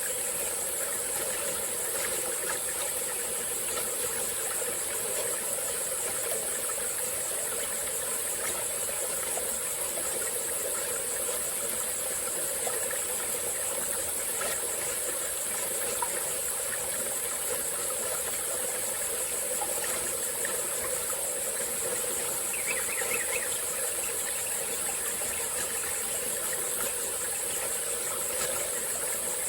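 A small forest stream flowing steadily, under a continuous high-pitched insect drone. About two-thirds of the way through, a brief chirping call.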